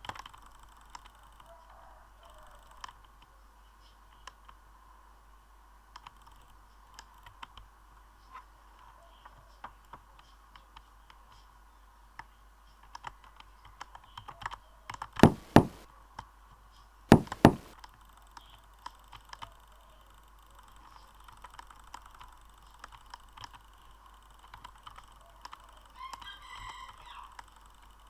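Scattered light clicks at irregular intervals, with two much louder double clicks a little past halfway, about two seconds apart.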